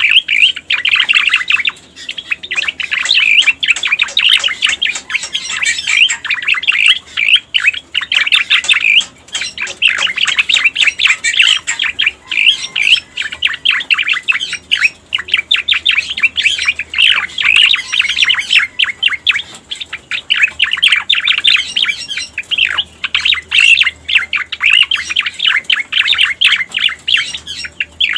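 Cica koreng birdsong from a lure recording: a rapid chattering song of many quick high notes, sung in phrases a few seconds long with brief pauses between.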